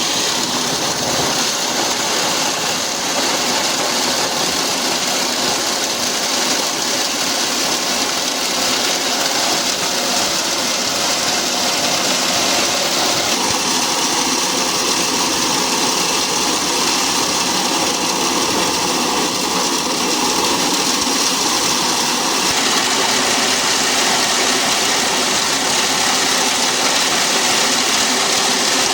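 Factory machinery running steadily, a continuous hissing mechanical noise with little bass.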